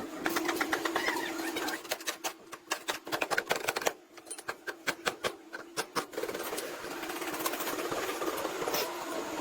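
Rapid mechanical clicking and rattling from shop work, in fast runs with gaps between them, over a faint steady hum.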